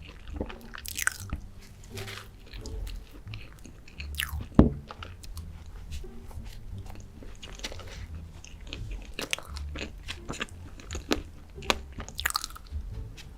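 Close-miked biting, chewing and crunching of chocolate, with wet mouth clicks throughout. A sharp, loud crunch about four and a half seconds in stands out above the rest.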